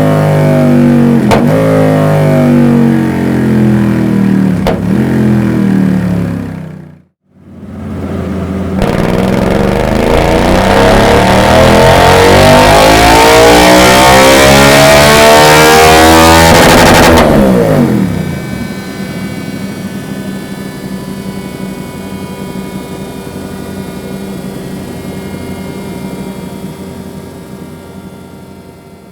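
2023 Suzuki GSX-8S 776 cc parallel-twin engine on a dyno: revving for the first few seconds, a brief break, then a long wide-open pull that rises steadily in pitch for about nine seconds and cuts off sharply. After the cut-off the engine and dyno roller wind down, quieter and fading.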